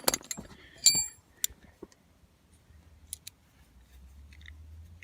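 Metal hand tools clinking as they are handled, with one ringing metallic clink about a second in, followed by a few faint clicks.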